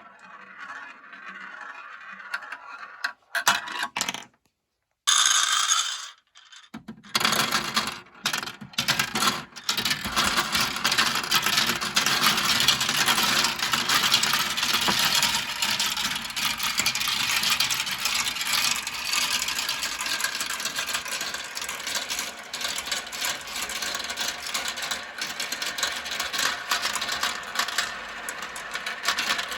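Many marbles rolling and clattering down a plastic marble run track. Scattered clicks and brief cuts at first, then about seven seconds in a dense, continuous rattle as the marbles pour down the course together.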